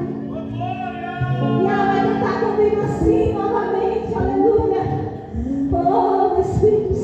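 Portuguese gospel worship song: voices singing a slow melody over sustained instrumental accompaniment.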